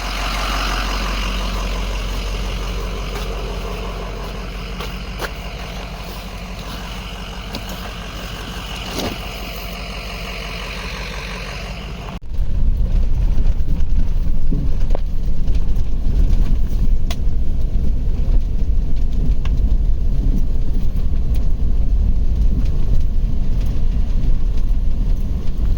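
Vehicle engine running steadily with a low hum; about halfway through, a sudden change to a much louder low rumble of the vehicle under way.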